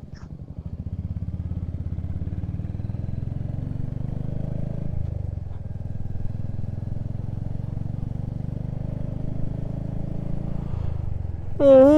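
Motorcycle engine heard from the rider's position, pulling up to speed in the first second and then running steadily under load, with a change in note about five seconds in and again near the end. A loud voice starts just before the end.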